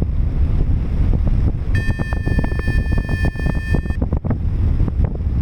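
Strong gusty wind buffeting the microphone in a loud, steady rumble. Partway through, a steady electronic beep sounds for about two seconds, then stops.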